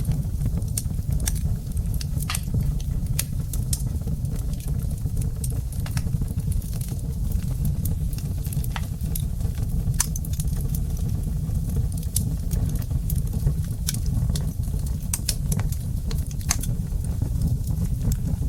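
Wood fire burning in a fireplace: frequent sharp, irregular crackles and pops over a steady low rumble.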